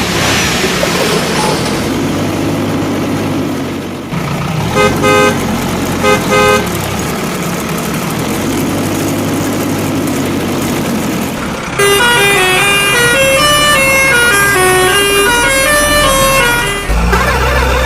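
Cartoon vehicle sound effects: an engine running, two short horn honks about five and six seconds in, then a short tune of quick stepping notes, and a deep rumble starting near the end.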